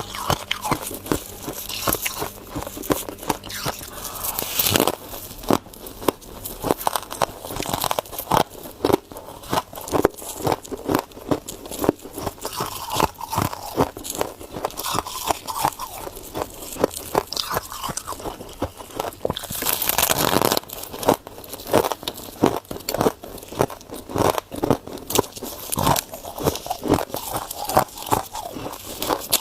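Ice being bitten and chewed close to the microphone: a dense, irregular run of sharp crunches and cracks, with a longer grinding crunch about twenty seconds in.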